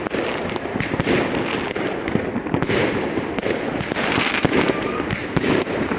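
Fireworks going off in a dense, irregular barrage of bangs and crackling pops, several every second.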